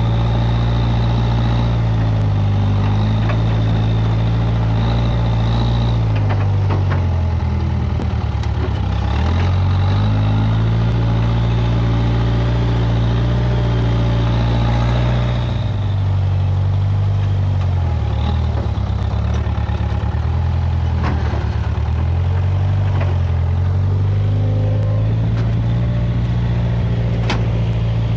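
Case 580G backhoe loader engine running steadily under work, its pitch sagging twice as it is loaded down and then picking back up, with a faint high whine and a few sharp knocks.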